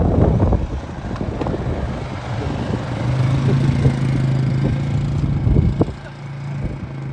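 Small dirt bike engine running at a steady idle, its note settling onto one even pitch about three seconds in and dropping in level near the end.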